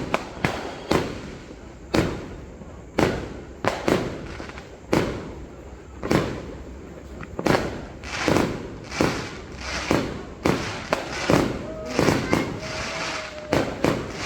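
Fireworks going off, a string of sharp bangs at irregular intervals, each fading quickly. They come thicker and faster in the second half.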